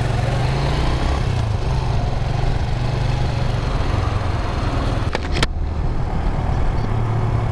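Suzuki GN 125's single-cylinder four-stroke engine running steadily while the motorcycle is ridden, with wind and road noise rushing over the microphone. A few sharp clicks come about five seconds in.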